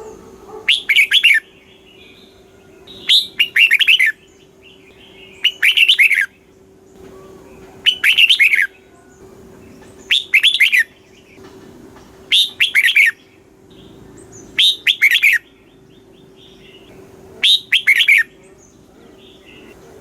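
Red-whiskered bulbul singing: short, loud phrases of quick, liquid warbled notes, each under a second long and repeated about every two and a half seconds, eight times.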